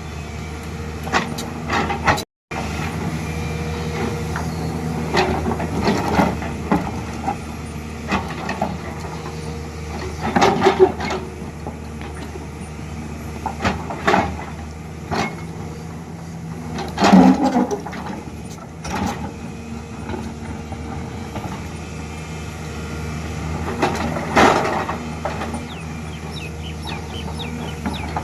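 Excavator's diesel engine running steadily, with several short, louder bursts of hiss and clatter from the machine as it works.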